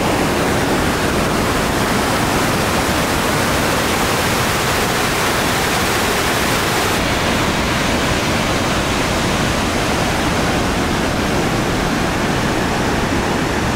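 Whitewater river rapids rushing over rocks: a loud, steady, unbroken rush of water.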